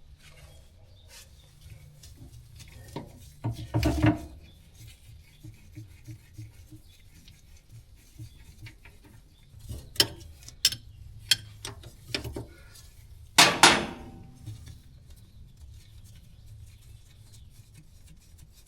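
Hands working a hydraulic hose and its metal fitting into place down inside a skid loader, with rubbing and light metallic clinks and clicks. There are louder clattering knocks about four seconds in and again near the two-thirds mark.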